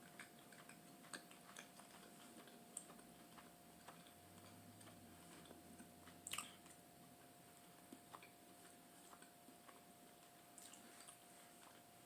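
Faint chewing and wet mouth clicks from eating oxtail, with one slightly louder smack about six seconds in, over a faint steady hum.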